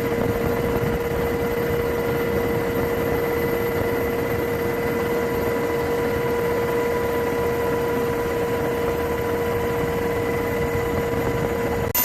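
Steady engine-like machinery noise with a constant mid-pitched hum, unchanging throughout, then cutting off abruptly near the end.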